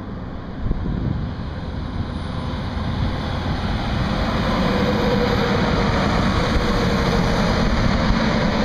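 Road vehicle noise, engine hum and tyre rush, growing steadily louder over several seconds as a vehicle draws near.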